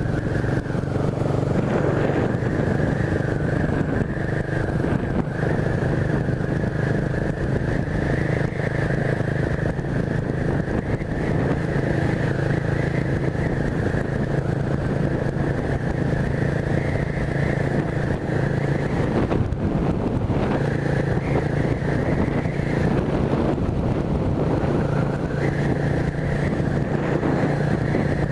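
Honda CB 300's single-cylinder four-stroke engine running steadily while the motorcycle is ridden, its note easing off briefly twice in the second half.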